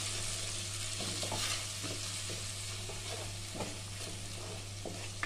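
Spice paste of ginger, coriander and cumin frying in mustard oil in a non-stick kadai, sizzling steadily while a wooden spatula stirs and scrapes through it in short strokes.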